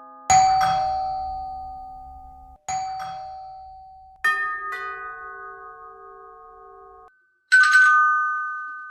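A series of different doorbell chimes, each struck tone ringing out and fading. About four seconds in comes a two-note chime, and near the end a brighter, buzzier ring.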